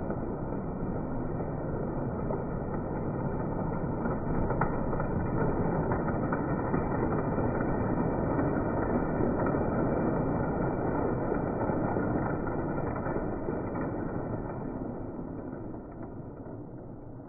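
A vintage Lionel toy train running on its track with a steady rumble of motor and wheels. It grows louder through the middle and fades away near the end.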